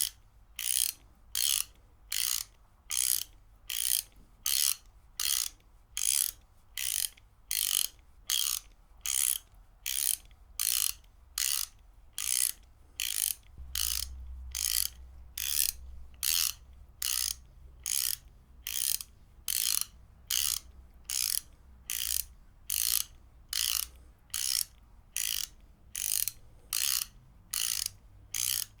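Ratchet wrench being worked back and forth, its pawl clicking in short, evenly repeated bursts about one and a half times a second.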